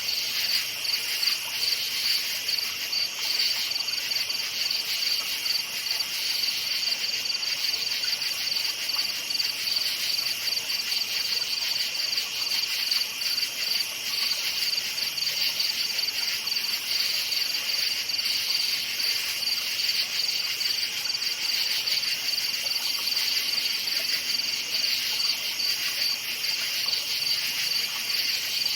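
Crickets chirping in a steady chorus: a continuous, high-pitched pulsing trill at two pitches, unchanging throughout.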